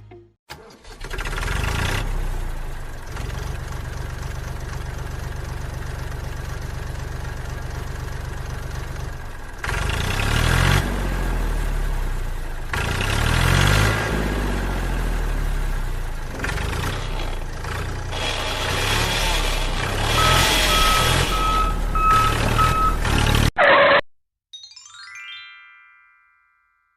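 Mini diesel engine starting and running steadily, then revving up and down repeatedly from about ten seconds in, before cutting off abruptly near the end. A short falling chime-like effect follows.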